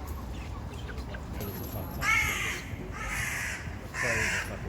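Four harsh, raspy bird calls about a second apart, starting about two seconds in, over a low steady rumble.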